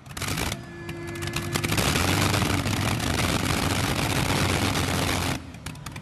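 Modified pulling tractor's engines running hard under load, the exhaust crackling rapidly over a low steady engine tone. The sound dips and changes abruptly about half a second in and again near the end.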